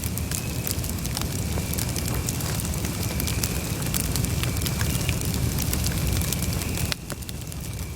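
Campfire burning: wood crackling and popping over a low steady rumble of flames, with a thin steady high whine. The level drops suddenly about seven seconds in.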